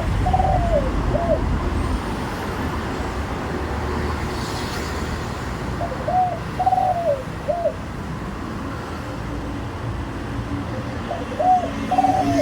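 Spotted dove cooing: a three-note phrase heard three times, about five seconds apart, with steady traffic rumble underneath.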